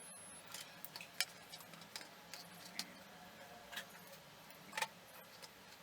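Scattered light clicks and taps from small tools and wires being handled at a workbench, over a faint steady low hum.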